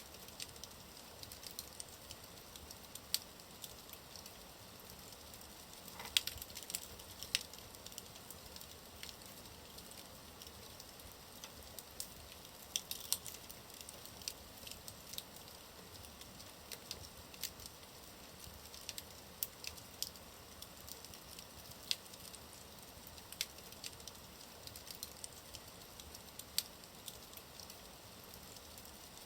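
Wood fire burning in a fireplace: a steady soft hiss with irregular crackles and sharp pops of the burning logs, a few louder pops scattered through.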